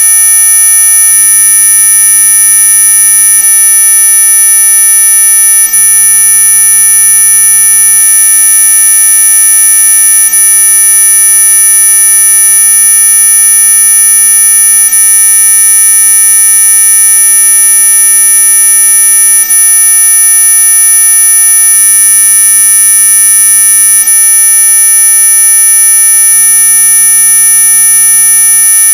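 Synthesized mosquito-repellent tone played at full volume: a steady, piercing stack of high-pitched electronic tones, strongest near the top of hearing, held without change apart from brief dropouts every few seconds.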